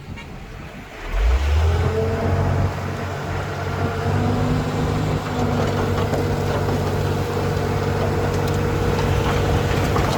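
Heavy diesel engine of earthmoving machinery revving up about a second in, then running steadily.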